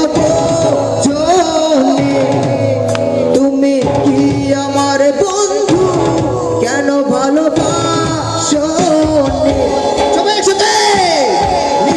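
Live performance of a Bengali song: a singer's voice over instrumental accompaniment with a steady percussion beat.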